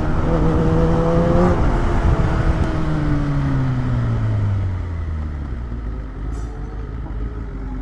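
Superbike engine under way. Its pitch climbs slightly, breaks about a second and a half in, then falls steadily over the next few seconds as the bike slows. It settles into a lower, quieter running note over wind and road noise.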